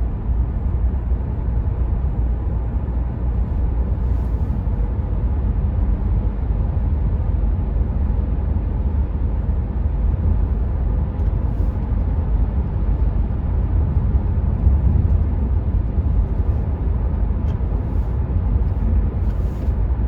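Steady low road and tyre rumble inside the cabin of a 1.5 dCi diesel Renault Mégane IV cruising at motorway speed, with the engine running under it and very little wind noise.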